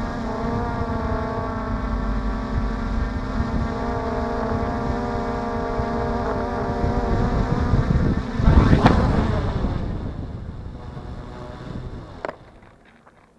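DJI F450 quadcopter's brushless motors and propellers whining steadily. About eight and a half seconds in there is a loud rushing thump. The motors then wind down and stop, with a single click near the end, as the drone lands and is shut off.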